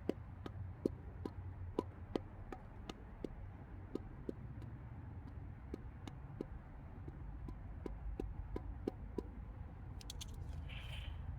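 Hand ratchet wrench clicking as it is worked, a series of light clicks about three a second over a low hum, with a quick cluster of clicks and a brief hiss near the end.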